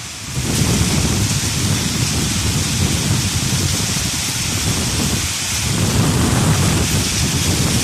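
Heavy rain and hail pouring down in a storm with strong wind, a dense hiss over a heavy low rumble. It swells sharply about half a second in and stays loud, the rumble easing briefly about five seconds in.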